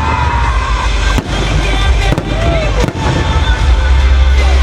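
Fireworks salute going off: sharp bangs about a second apart over a continuous deep rumble of bursts, with music playing.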